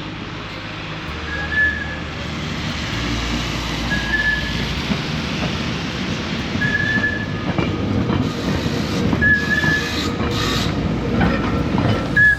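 Manx Electric Railway tram running along the track: a steady rumble of wheels and motors, with a short high squeak about every two and a half to three seconds.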